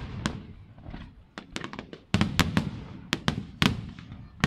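Aerial fireworks shells bursting: a string of sharp bangs and crackles, with a dense volley starting about halfway through and one last loud bang near the end.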